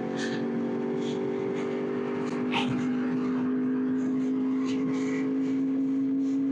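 2021 Yamaha YZF-R1's inline-four engine running steadily under way, its pitch creeping slowly upward as the bike gently gains speed.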